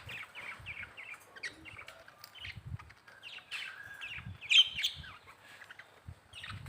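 Small flock of budgerigars chattering: a busy run of short chirps and warbles, the loudest a little over halfway through, with a few faint low thuds.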